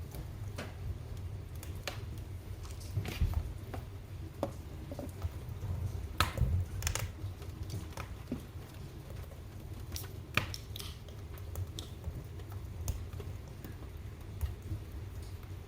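Wood fire crackling in a fireplace: irregular pops and snaps over a low steady rumble, with a few louder pops about three, six and ten seconds in.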